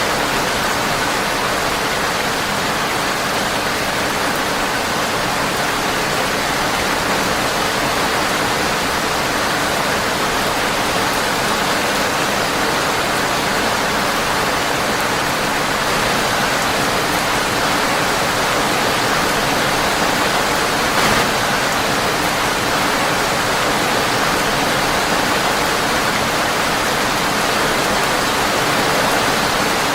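Steady rain pattering on a windowpane, an even hiss with no let-up. One brief click about two-thirds of the way through.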